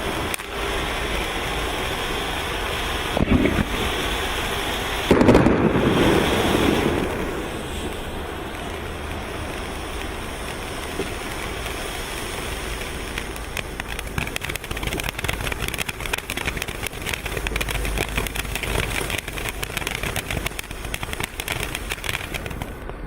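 Firework fountain burning with a steady hiss, surging louder about five seconds in. In the second half it turns to dense rapid crackling.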